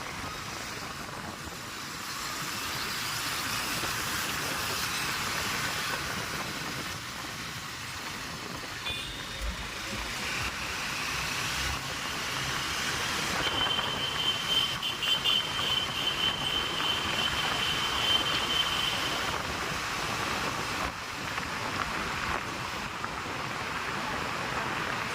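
Steady road and wind noise of a moving vehicle, with a thin high tone held for several seconds midway.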